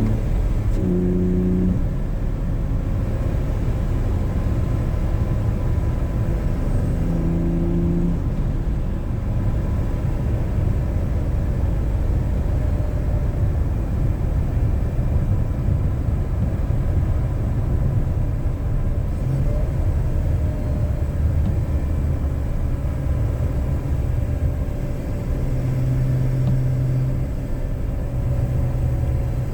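BMW E46 inline-six engine with a K&N intake, running while driving under light load with road rumble underneath; its note steps up and down a few times.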